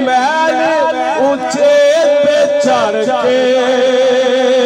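A singer holding long, ornamented vowel notes between the lyric lines of a Punjabi lament, over musical accompaniment. The voice sweeps through quick turns, then settles into two long held notes, the second slightly lower, from about a second and a half in.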